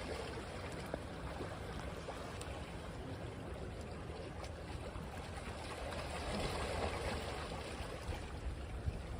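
Small waves washing on a beach: a steady hiss of moving water that swells briefly about six to seven seconds in.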